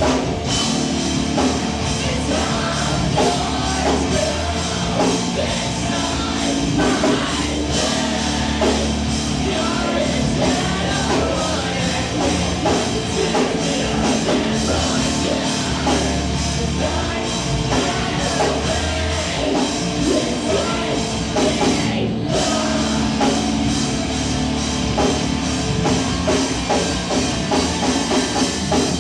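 Live rock band playing loud and heavy, with drum kit and singing. There is a momentary break in the sound about three-quarters of the way through.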